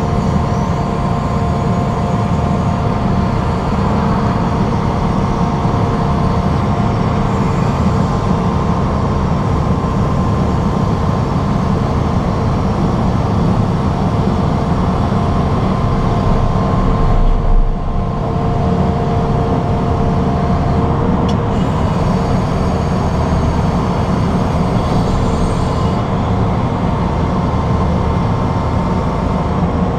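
Engine of heavy excavation machinery running steadily, a constant low drone with a faint steady whine over it and a brief dip about two-thirds of the way through.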